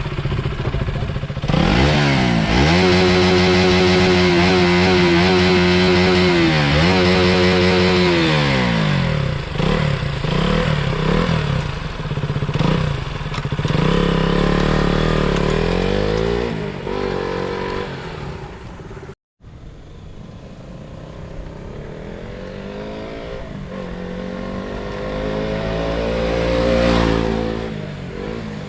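KTM Duke 200's single-cylinder four-stroke engine and exhaust revving up and holding high revs for several seconds before dropping, then rising and falling again several times. After a brief cut, the note climbs slowly to a peak near the end and falls away.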